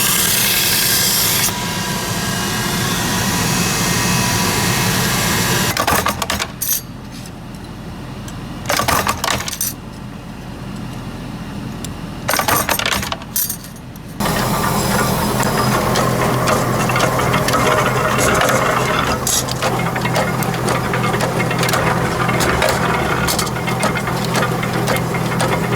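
A workshop power tool runs with a steady motor hum and rasping, rattling noise as steel is worked. It goes much quieter for several seconds in the middle, with a few brief loud spells, then runs at full level again.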